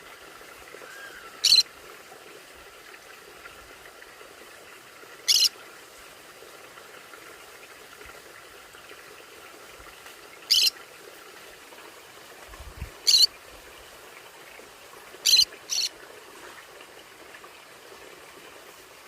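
Conure calling: six short, harsh screeches at uneven gaps, the last two in quick succession.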